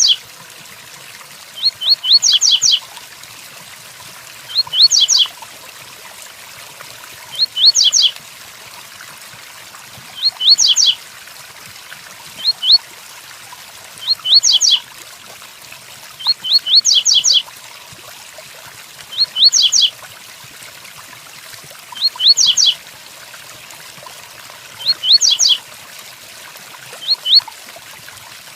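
Double-collared seedeater (coleiro) singing the 'tui-tuí' song: short, loud phrases of quick rising high whistled notes, repeated about every two and a half seconds. Under the song runs a steady hiss of rain sound.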